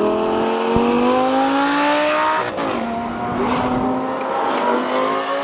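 Straight-piped Lamborghini Gallardo Superleggera's V10 exhaust under load. Its pitch climbs steadily for about two and a half seconds, drops sharply at an upshift, then climbs again more slowly.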